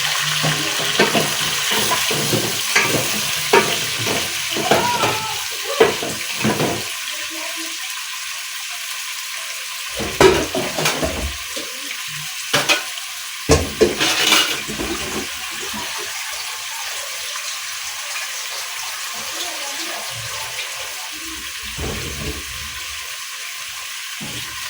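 Food sizzling steadily in a cooking pot, with the knocks and clatter of stirring and utensils on the pot in the first several seconds and again about ten to fifteen seconds in.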